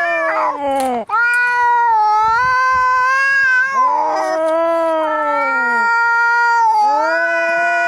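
Angry cat caterwauling: long, drawn-out yowls, about three in a row, each a few seconds long and sagging in pitch at the end, with a rough, harsh overlap where one call starts as the last fades. This is the threatening yowl of cats squaring off to fight.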